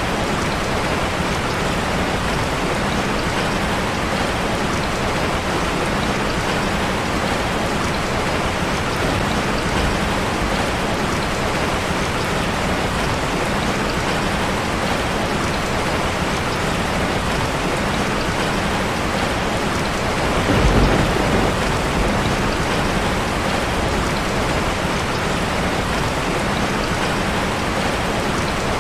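Steady rain drumming on a metal roof. About two-thirds of the way through, a brief low rumble swells up and fades.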